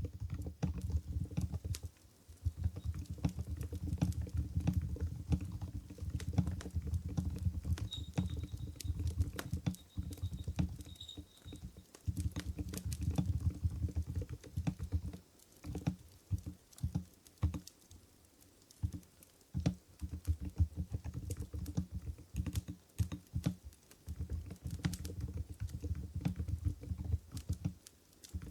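Typing on an Mstone Groove GV10 keyboard with silent coral switches (45 g): fast runs of soft, deep keystrokes, with short pauses about halfway through and again near the end.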